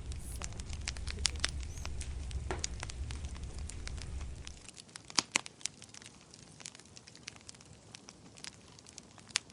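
Wood fire in a fireplace crackling, with scattered sharp pops. A low rumble under it cuts off suddenly about halfway through, leaving only the crackles.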